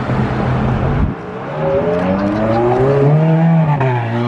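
A performance car's engine accelerating hard: its pitch climbs steadily for about two seconds, then drops suddenly as it shifts up and pulls on.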